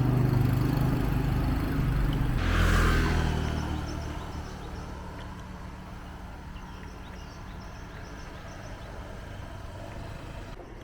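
A motor vehicle's engine hums steadily. About three seconds in a vehicle passes with a brief rise in loudness, then the sound falls back to a quieter steady road background.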